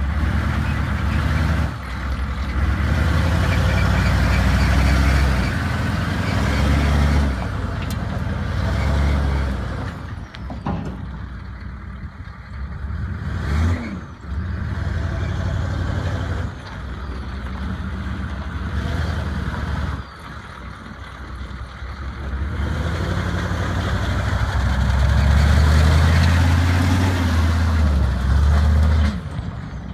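Chevrolet 3500 HD pickup truck engine running, its pitch and level rising and falling several times as it revs or pulls.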